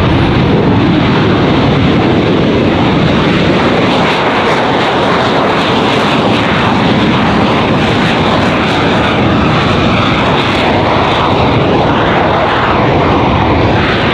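Loud, steady jet noise from an AV-8B Harrier II's Rolls-Royce Pegasus turbofan engine.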